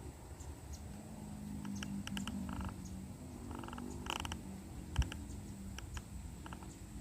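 Zebra dove (perkutut) cooing in low, rolling notes for several seconds, with short high chirps from other small birds scattered through, and a single sharp tap about five seconds in.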